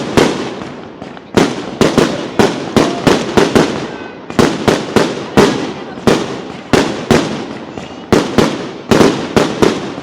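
Fireworks display with explosions going off in quick succession. The bangs come about two or three a second, each trailing off in echo, with a brief lull in the first second.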